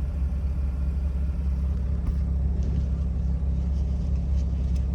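1994 Mazda RX-7 (FD) twin-rotor 13B rotary engine idling steadily while warming up, a low, even rumble.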